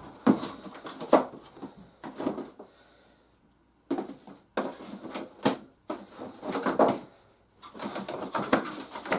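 Toy packaging being handled: irregular clicks, knocks and rustles of plastic trays and cardboard, broken by two short quiet pauses.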